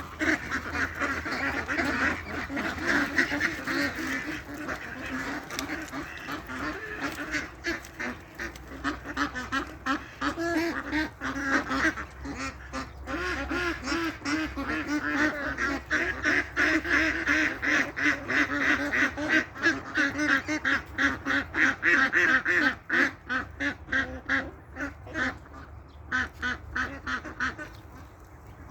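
A flock of waterfowl calling continuously: many short, overlapping calls, densest in the middle and latter part.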